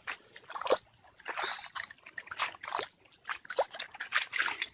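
Irregular sloshing splashes of steps through shallow floodwater, over a faint trickle of running water.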